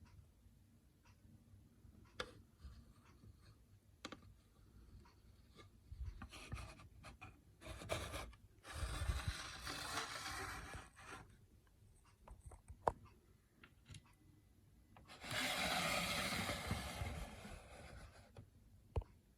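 Rubbing and scraping noises in two longer stretches, with scattered sharp clicks between them.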